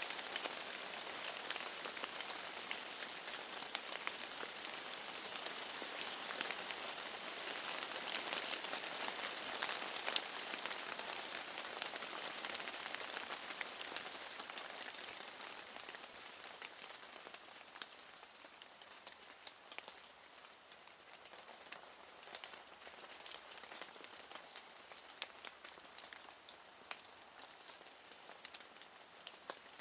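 Steady rain falling, a continuous hiss with many separate drop ticks on top. It grows lighter and quieter in the second half.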